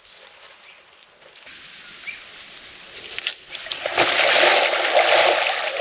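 Water splashing and sloshing as someone wades into a warm river, loudest over the last two seconds.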